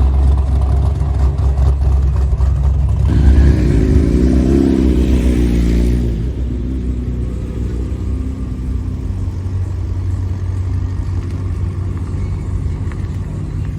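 Car engine and exhaust rumbling loudly, rising into a rev about three seconds in that drops back after about six seconds to a lower, steady rumble.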